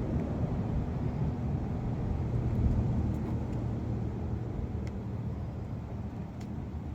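Low rumble of a passing motor vehicle, swelling to its loudest about midway and easing off toward the end.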